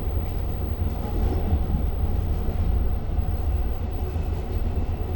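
Steady low rumble heard inside a Long Island Rail Road diesel-hauled passenger car, with no distinct clicks or squeals.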